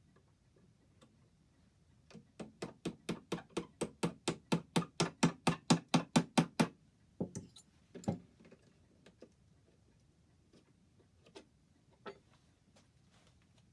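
A rapid run of light hammer taps, about five a second and growing louder, then two heavier knocks and a few scattered clicks. This fits tapping to work the damaged hood moulding of an oak longcase clock loose.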